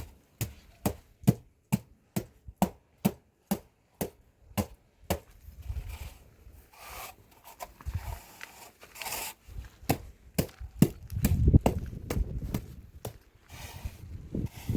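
A quick run of sharp knocks, about two or three a second, then scattered knocks mixed with scraping and rustling, with a low rumble near the end.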